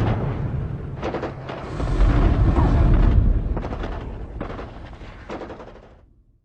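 Explosions: a deep, booming rumble with several sharp cracks like gunfire over it, dying away about half a second before the end.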